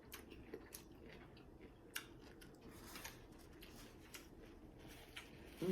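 Close-miked chewing of food, with scattered crisp clicks and crunches from the mouth. It ends with a short falling hum.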